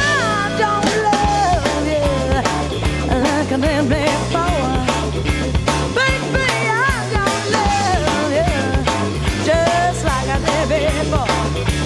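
Blues-rock shuffle played by a full band: bass and drums come in right at the start, under a lead line of bent, sliding notes.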